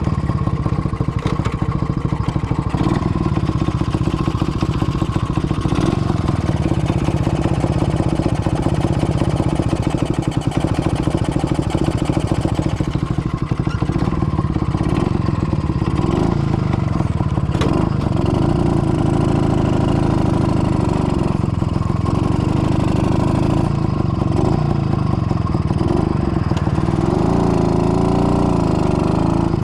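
IZh-49 motorcycle's single-cylinder two-stroke engine running steadily under way, its rebuilt, rebored block with a 75 mm piston being run in at moderate speed. The engine pitch rises and falls a few times near the end.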